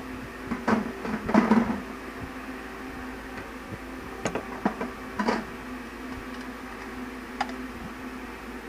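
Knocks and clatter of black ABS plastic pipe fittings being handled, loudest about a second and a half in, with a few more around the middle and one near the end, over a steady low hum.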